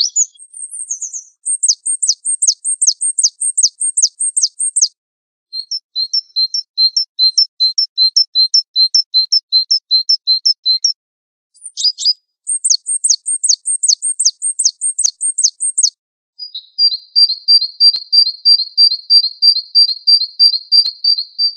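Recorded songbird song from a bird-training master track of Javan white-eye (pleci) song, filled in with canary and black-throated canary phrases. Rapid high chirps come in runs of identical notes, about five a second. Each run changes note type after a short pause, and the last is a fast, even trill.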